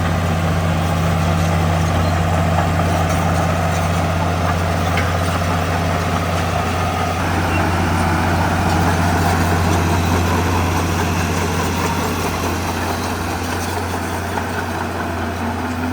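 Heavy diesel engine of an earthmoving machine running at a steady speed, a deep even drone with rough noise above it.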